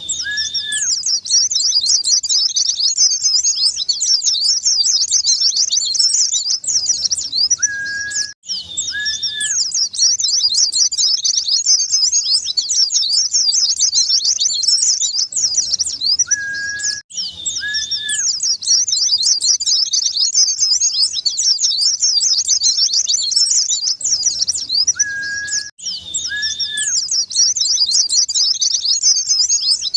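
White-eye (pleci) song: a fast, unbroken twittering of high notes. It breaks off briefly about every eight or nine seconds, and each time it starts again with two short lower whistles.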